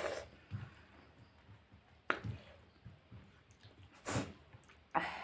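Close-up eating sounds: wet chewing and lip smacks on pork curry with gravy, with a few sharper smacks about two and four seconds in.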